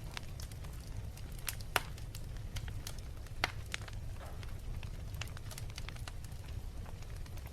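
Wood fire burning in a fireplace: a steady low rumble of the flames with irregular sharp crackles and pops, two louder pops about two and three and a half seconds in.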